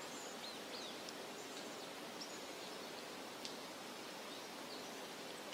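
Outdoor ambience: a steady soft hiss of open air with small birds chirping faintly here and there, and one short sharp click about three and a half seconds in.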